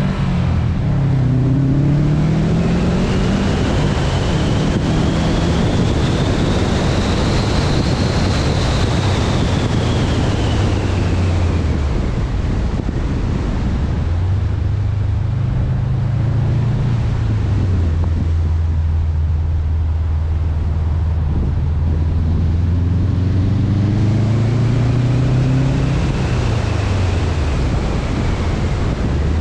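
2019 Subaru WRX STI's turbocharged flat-four engine through an Invidia N1 exhaust while driving: the engine note drops in the first couple of seconds, holds steady, climbs about halfway through and again near the end, then drops. Heavy wind noise on the microphone runs underneath.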